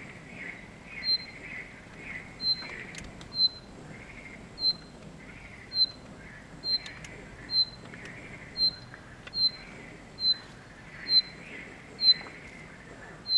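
Birdsong: a short, sharp high note repeated steadily about once a second, over softer, irregular warbling.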